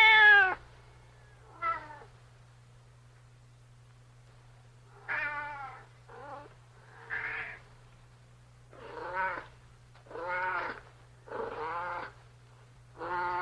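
Domestic cat meowing repeatedly: one loud, drawn-out meow at the start and a short one soon after, then, after a pause of a few seconds, a run of about seven meows. A steady low hum runs beneath.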